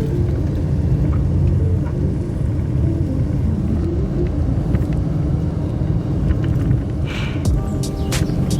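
Steady low rumble of a running engine, with a short hiss about seven seconds in.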